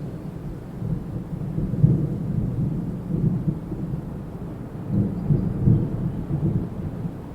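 Wind gusting as a low rumble that swells about two seconds in and again around five to six seconds.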